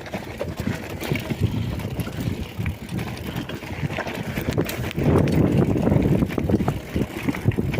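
Mountain bike rolling over a rough dirt trail: tyre rumble and frame rattle with many small knocks, wind buffeting the microphone. It gets louder from about five seconds in.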